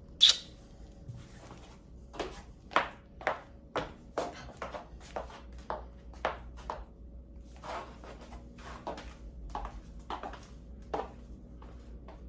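Dishes and cutlery clinking and knocking as a dishwasher is unloaded: a sharp, ringing clink just after the start, then a run of irregular knocks and clatters, one or two a second.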